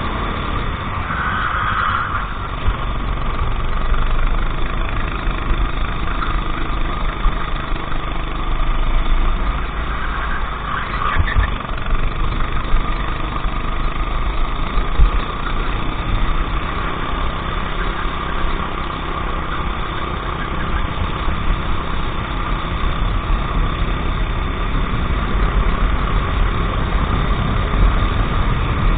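Racing kart engine running steadily during a race, a constant drone over a heavy low rumble.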